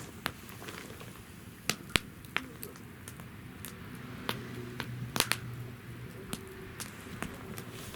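Wood fire in a fire stand crackling, with irregular sharp pops of burning firewood, several of the loudest just before and after two seconds in and again around five seconds in.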